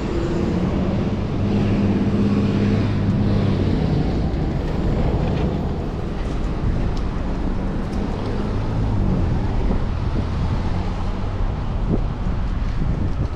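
Street traffic, with a motor vehicle's engine running close by over a steady rush of wind on the microphone.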